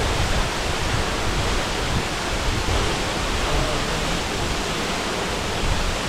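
Waterfall: a steady roar of falling water.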